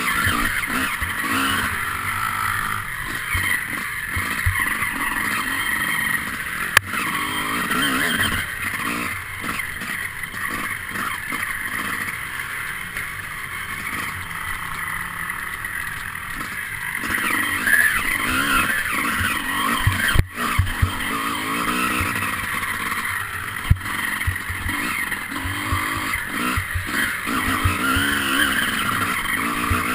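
Enduro motorcycle engine heard from a camera mounted on the bike, revving up and down continuously as it is ridden along a trail, with a few sharp knocks along the way.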